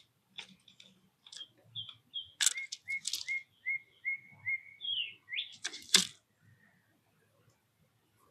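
A songbird singing a quick series of short whistled notes, about three a second, for roughly four seconds. Several sharp knocks cut through it, the loudest about six seconds in.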